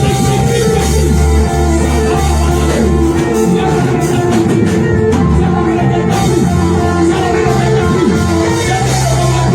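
Live worship band playing: electric guitar, bass and drum kit, with singing over the top.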